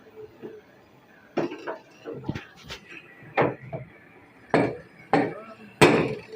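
Hammer striking a car's sheet-metal body panel, about eight irregular metallic knocks, some with a short ring: dent-beating on the body side.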